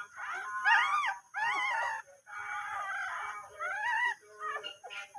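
Dog whimpering: a run of high, whining cries that rise and fall in pitch, several in close succession.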